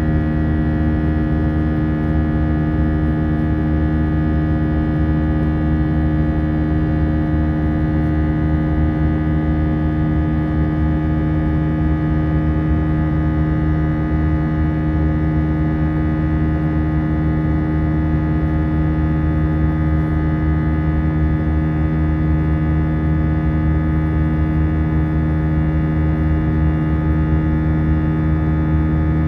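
Airbus A319 cabin noise in flight: a steady drone of jet engines and airflow, with several constant tones over a low rumble.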